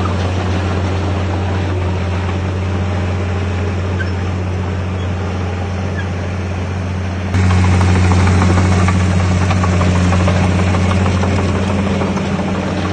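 Komatsu D51PX bulldozer's diesel engine running steadily with a deep, even drone; it jumps abruptly louder about seven seconds in.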